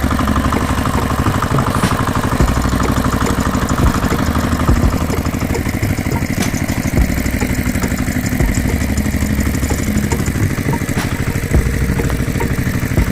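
Tractor engine idling steadily, with a fast, even chugging beat.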